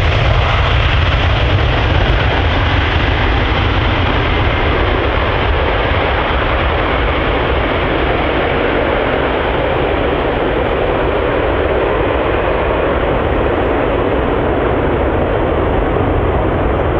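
Jet airliner landing: a steady, loud roar with a deep rumble underneath, its higher hiss slowly dulling as it goes on.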